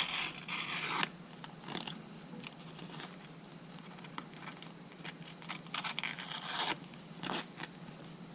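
A small hand blade cutting and scratching through thin material in several short strokes, the longest near the start and about two-thirds of the way in, with small clicks between.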